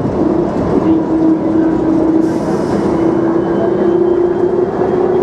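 DFW Skylink automated people-mover train (Bombardier Innovia APM 200) running, heard from inside the car: a steady motor whine that slowly rises in pitch, over the rumble of the running gear. A short hiss comes about two seconds in.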